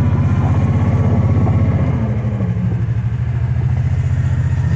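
Kawasaki Teryx side-by-side UTV's engine running at low speed, a steady pulsing note that dips slightly about two seconds in and picks up again near the end.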